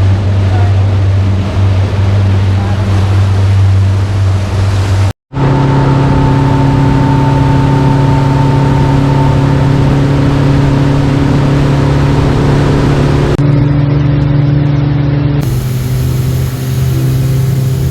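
Motorboat engine running steadily at speed, a loud low drone. It cuts out for an instant about five seconds in, then resumes slightly higher in pitch, and its pitch steps again twice near the end.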